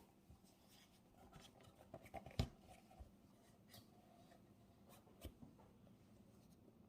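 Small handling sounds at a desk in a quiet room: light rustling and scattered clicks, with a sharp knock about two and a half seconds in and a softer knock about five seconds in.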